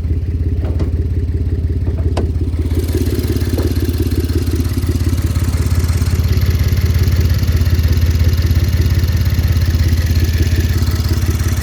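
Ford Taurus Police Interceptor's 3.5-litre twin-turbo V6 idling, with a rapid, even puffing from an exhaust leak. A broad hiss joins about three seconds in.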